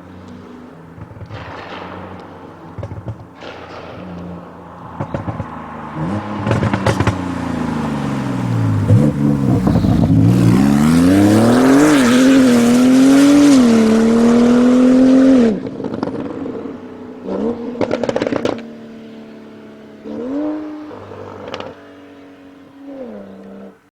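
Tuned Porsche 991 Turbo S twin-turbo flat-six running with exhaust crackles and pops, then accelerating hard with two gear changes. The engine note cuts off sharply on lift-off and is followed by a series of exhaust pops and bangs. It then settles to a lower running note with two short blips of revs.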